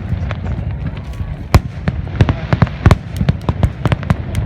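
Fireworks display: many sharp bangs and crackles several times a second, at uneven intervals, over a steady low rumble. The loudest bangs come about a second and a half in and again near three seconds.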